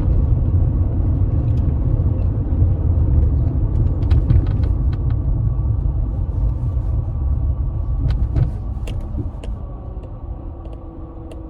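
Car driving, heard from inside the cabin: a steady low rumble of road and engine noise that eases off after about eight seconds, as if the car slows.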